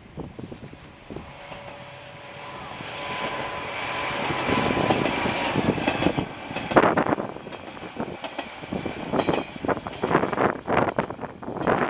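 A Sanriku Railway diesel railcar running past, the sound building from about two seconds in with a steady whine over it. Strong wind buffets the microphone in gusts through the second half.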